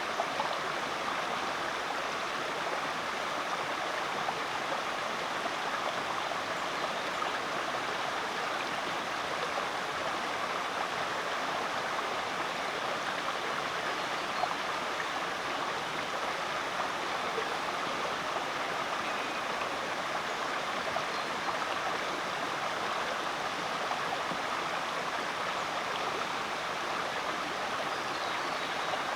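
Rainforest creek running over rocks: a steady, even rush of flowing water.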